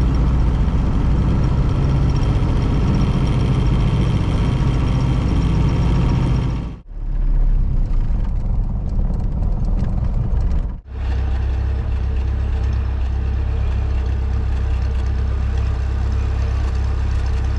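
1932 Ford Model B's four-cylinder engine running steadily. The sound cuts off abruptly about seven seconds in and again about eleven seconds in, each time resuming as a deeper, heavier low rumble.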